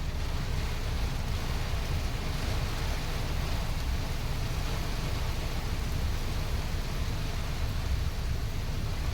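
Steady rain falling, an even hiss with a low, flickering rumble underneath.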